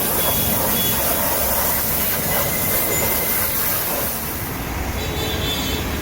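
High-pressure washer jet hissing steadily as it sprays the muddy motorcycle, fading out about four and a half seconds in, over a rumble of street traffic.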